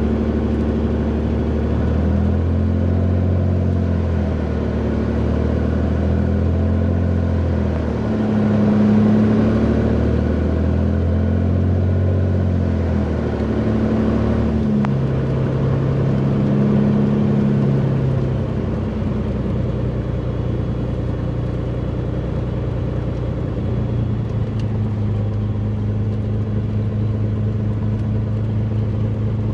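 Beechcraft Bonanza's piston engine and propeller running on the ground, the engine note dropping and rising several times in the first half as the propeller control is cycled, then running steadily and a little quieter. Cycling the prop flushes cold, thick oil out of the propeller hub during warm-up.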